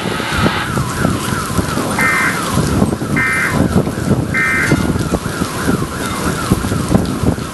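A car alarm going off, its tone sweeping rapidly up and down about three times a second, with three short higher beeps in the middle, over the steady hiss of heavy rain. It cuts off at the end.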